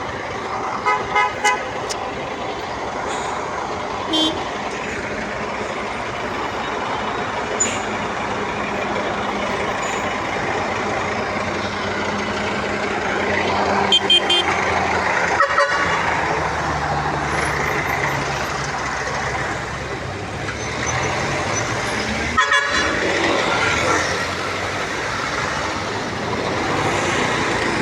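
City street traffic: motor vehicles running and passing, with several short car-horn toots, the first few within the first few seconds, and a few sharp knocks or clacks around the middle.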